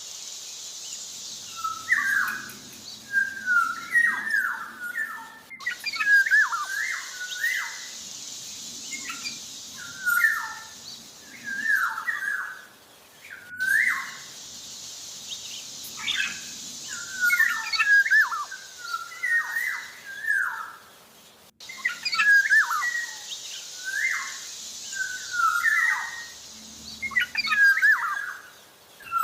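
Black-naped oriole singing: short whistled phrases that bend up and down, repeated about every second or two, over a steady high hiss.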